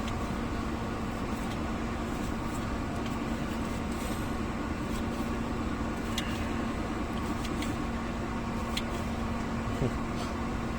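Steady hum of a running engine with one constant low tone, and a few faint clicks.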